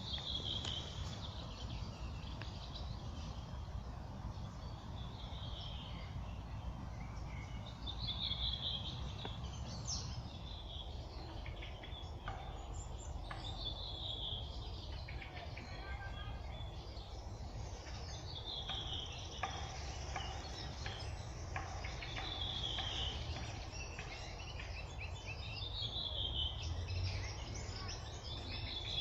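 A songbird singing a short, slightly falling phrase, repeated every few seconds, over a steady low rumble in the background.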